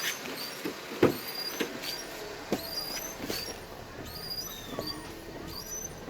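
Perodua Viva Elite windscreen wipers squeaking as they run: many short, high squeaks in a quick series, with a sharp knock about a second in. The squeak persists even with new wiper blades and comes from the wiper linkage.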